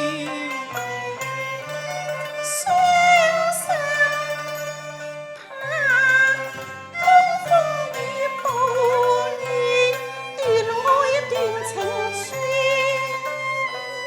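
Cantonese opera accompaniment playing an instrumental passage between sung phrases: bowed strings carry a wavering melody with vibrato over bass notes that change about once a second.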